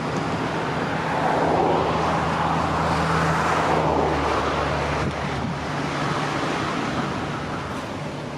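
A motor vehicle passing by: a steady low engine hum under noise that swells for the first few seconds and then fades.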